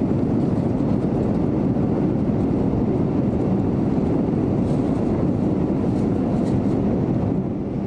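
Steady in-flight cabin noise of a Boeing 787-9, an even rush of engine and airflow noise heard from a window seat beside the engines.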